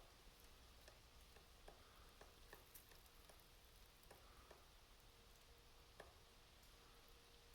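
Woodpecker pecking at a tree: faint, irregular taps, about two a second.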